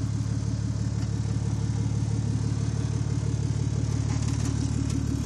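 Nissan 240SX's swapped-in turbocharged RB25 straight-six idling steadily.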